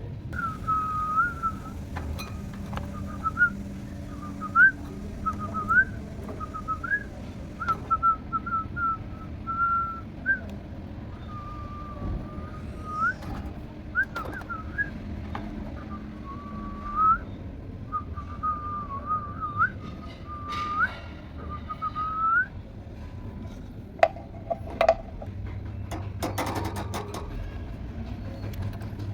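Whistling: a run of short, pure whistled phrases that slide up and down in pitch, with brief pauses between them, stopping a few seconds before the end. Then come a handful of sharp clicks and taps.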